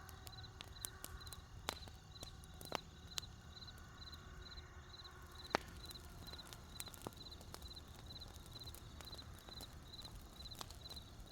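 Wood campfire crackling, with scattered sharp pops, the loudest about five and a half seconds in. Crickets chirp steadily behind it, about three short chirps a second.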